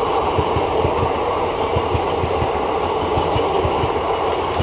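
Passenger train coaches running past at speed without stopping: a steady rumble of steel wheels on the rails with a rapid clickety-clack, about four to five thumps a second, as wheelsets cross the rail joints.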